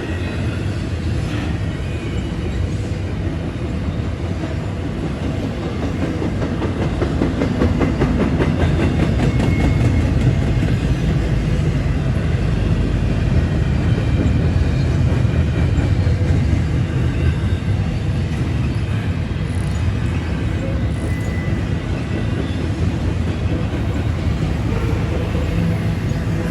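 Long intermodal container freight train rolling past steadily on steel rails. The rumble swells for several seconds in the middle, then eases off slightly.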